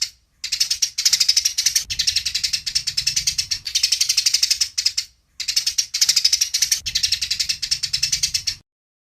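Eurasian tree sparrows (burung gereja) chirping in fast, even runs of about nine chirps a second: the excited fighting chatter ('tarung') used to train songbirds. The run breaks briefly a little after five seconds in and stops shortly before the end.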